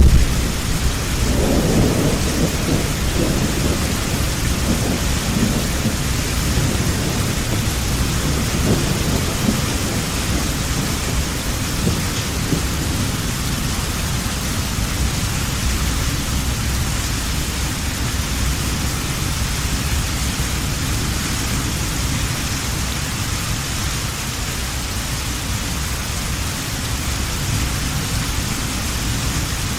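Heavy rain falling steadily, with a rumble of thunder at the start that rolls on and fades away over the first ten seconds or so.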